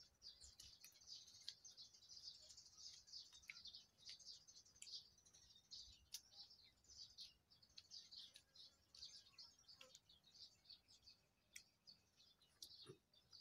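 Faint birds chirping: a steady stream of short, high chirps, with a few soft clicks.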